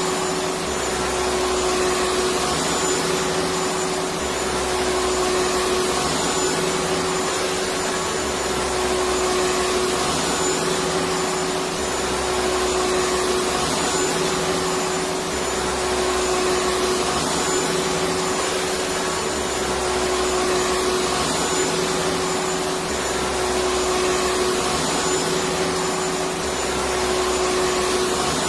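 Electric vacuum cleaner running continuously: a steady whirring rush with a constant hum in it, and a low throb that swells and eases about every three to four seconds.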